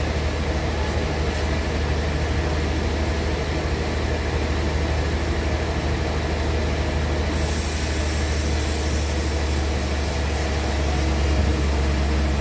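Sawmill band saw machinery running steadily with a deep hum; a high hiss joins about seven seconds in.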